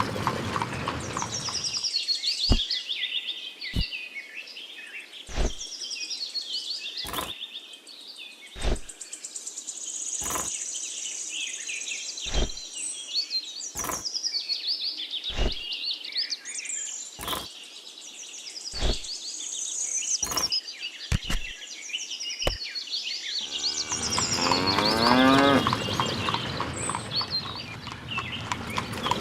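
Cows mooing, then birds chirping over a sharp knock repeated about every second and a half, then cows mooing again near the end.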